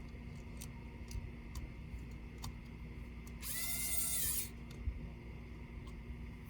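A small electric screwdriver whirs for about a second, spinning up and winding down, amid light clicks of small tools and parts being handled.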